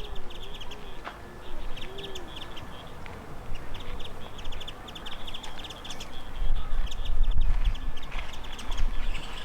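Small songbirds, Japanese white-eyes, giving short high chirping calls in quick runs over and over, with a low rumble swelling in the second half.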